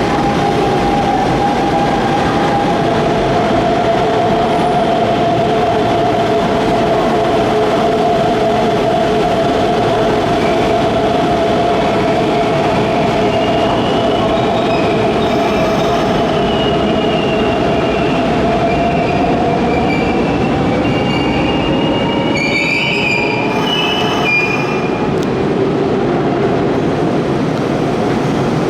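Hanshin 8000-series electric train moving through the platform. A steady motor whine runs over the rail noise and dies away about two-thirds of the way in, and high wheel squeals come in the second half.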